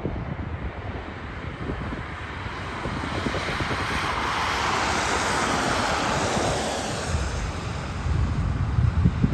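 Jet airliner passing by, its engine noise swelling to a peak about halfway through and then fading. Wind buffets the microphone throughout, gusting harder near the end.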